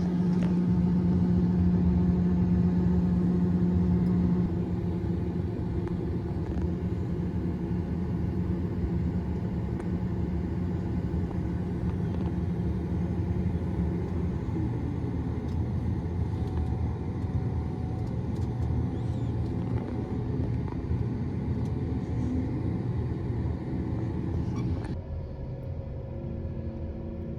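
Combine harvester running steadily, a continuous engine and machinery drone with a strong hum that eases after a few seconds. Near the end the sound changes abruptly to a duller, lower engine drone.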